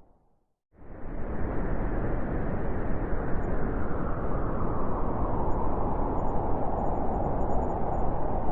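Blizzard wind blowing steadily, a deep rushing noise. It opens with a brief silent gap, and the wind cuts back in abruptly under a second in, like a loop restarting.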